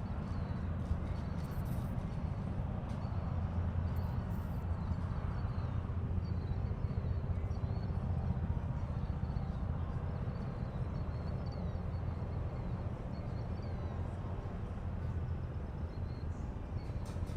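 Steady low rumble of outdoor harbour-side ambience, with faint high chirps scattered through it.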